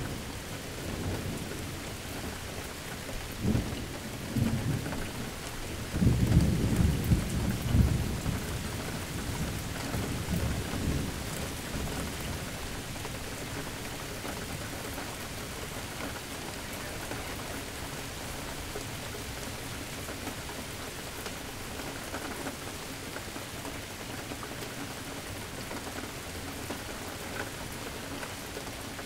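Steady rain falling, with a deep roll of thunder that builds from about 3 seconds in, is loudest around 6 to 8 seconds and rumbles away by about 13 seconds, leaving the rain alone.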